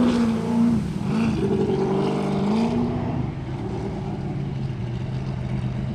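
Jet sprint boat engine revving up and down, then dropping to a lower, steadier note about three seconds in.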